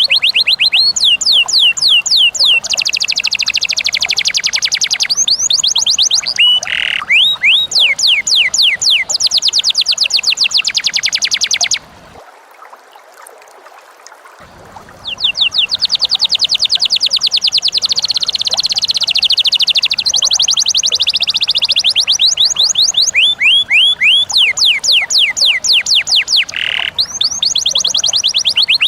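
Lovebird ngekek: long runs of fast, high chattering notes, each sweeping downward, several a second. The runs break off for about two seconds near the middle.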